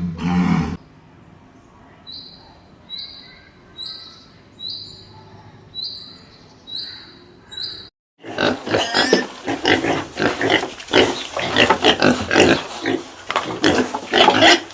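Pigs grunting, loud and continuous, over the second half after a sudden cut. Before that comes a quiet stretch with about seven short high chirps, evenly spaced less than a second apart, and at the very start the tail of a loud roar that cuts off.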